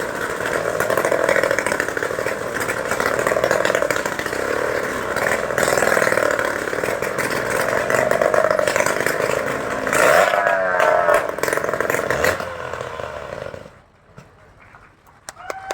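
Several motorcycle engines revving continuously as the bikes circle inside a cage, the sound rising and falling in regular swells about every two and a half seconds. The engines die away about thirteen seconds in.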